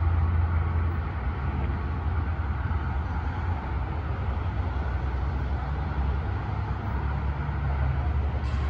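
Diesel commuter train pulling away down the line, a low steady rumble.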